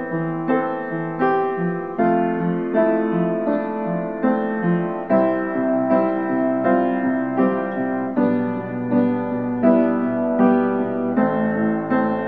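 Solo piano playing a slow, gentle original piece. About two notes are struck each second, each fading before the next.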